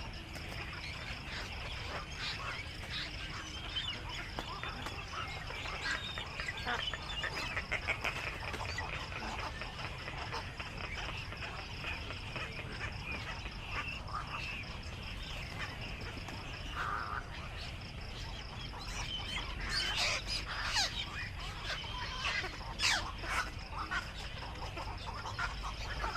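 Black-crowned night herons calling at the nest: a steady chatter of harsh, quacking calls, with several louder calls close together near the end.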